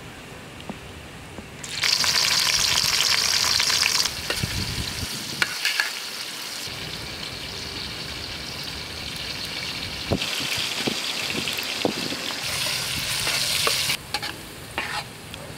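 Chopped vegetables sizzling in hot oil in a large metal pot: a loud burst of sizzling about two seconds in as they hit the oil, then steady frying with a few brief clinks, quieter near the end.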